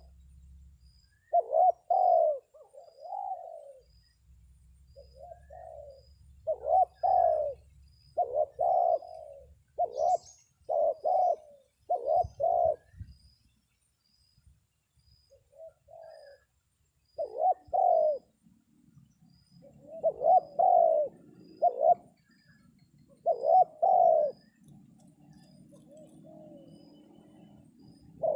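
Spotted doves (terkukur) cooing: short phrases of two or three low coos, repeated with gaps of a second or more between phrases. A faint high tick repeats about every two-thirds of a second behind them.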